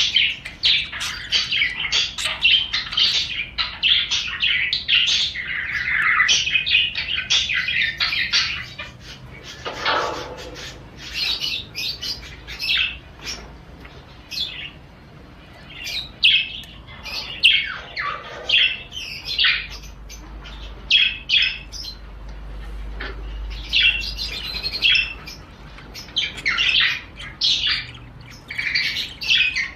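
Male budgerigars warbling and chattering in the rapid chirping song of breeding condition. Dense chirps and squawks, thinning out for a few seconds past the middle before picking up again.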